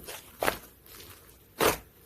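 Slime being squished and pressed by hand, making two short sticky popping clicks about a second apart.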